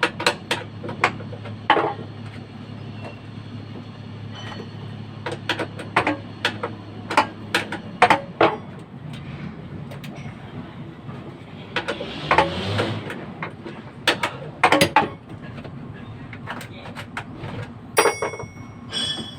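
Irregular metal clanks and knocks of tools and parts being worked on a truck, some ringing briefly, over a low steady hum that fades out about halfway through. About twelve seconds in there is a scraping noise lasting about a second.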